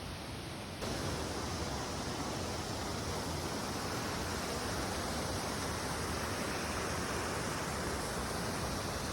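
Waterfall pouring in heavy flow, swollen after a lot of rain: a steady, even rush of water that jumps louder about a second in and then holds.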